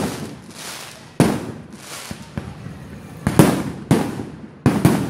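Fireworks going off: a run of about six loud, sharp bangs, each dying away over about half a second. The last four come in two quick pairs in the second half.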